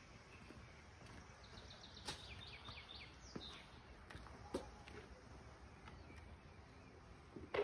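A songbird singing a quick run of about ten high notes that fall in pitch, about a second and a half in, over a quiet outdoor background with a few scattered clicks. A short, sharp knock near the end is the loudest sound.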